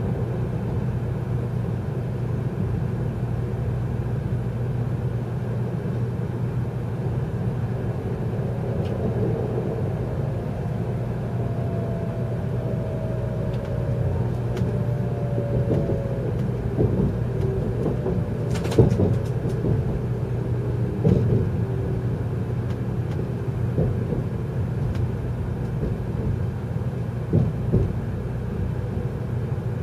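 N700-series Shinkansen heard from inside the passenger car: a steady rumble of the train running on its rails, with a faint whine that slowly falls in pitch through the middle as the train slows toward a station stop. A few sharp clacks cut through, the loudest about two-thirds of the way in.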